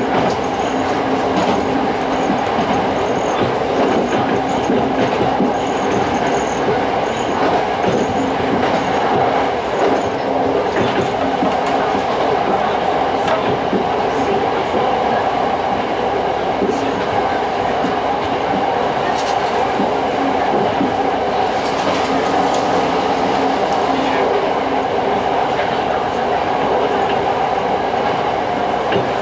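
Tango Kuromatsu diesel railcar running along the line, heard from inside the car: a steady engine and running noise with a few faint clicks from the wheels.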